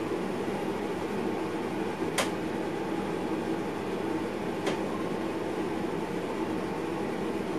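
Steady running noise of a train heard inside the driver's cab, with two sharp clicks about two and a half seconds apart.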